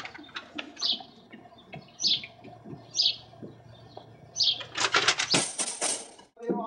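A bird chirping, short high calls about once a second, then a dense burst of rapid rustling clicks lasting about a second and a half.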